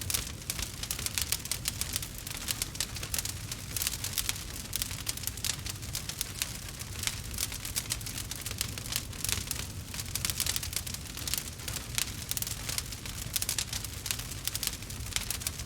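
Campfire crackling: a dense, irregular patter of small pops and snaps over a low, steady rumble of the burning fire.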